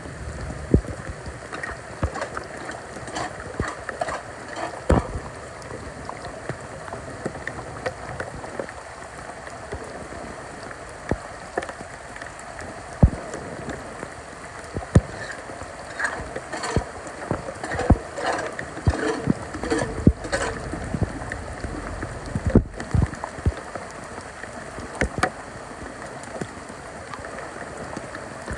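Rain falling and floodwater flowing, with irregular sharp knocks and splashes.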